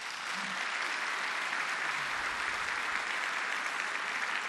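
An assembly audience applauding steadily, the clapping swelling in and then tailing off.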